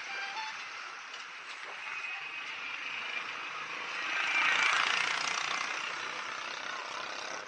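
Steady traffic and road hiss heard from a moving bicycle. It swells to its loudest about four to five seconds in, then fades.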